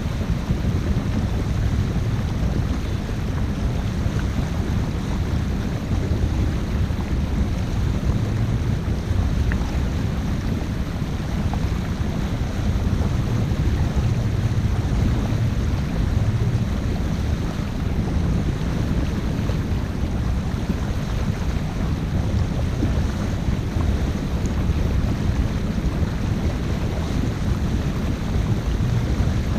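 Steady low rumble of wind buffeting a GoPro's microphone aboard a boat under way, mixed with the rush of water.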